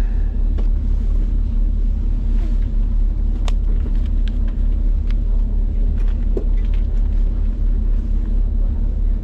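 Ferry's engines running with a steady, loud low drone, heard from the passenger seating, with a few faint clicks and knocks on top.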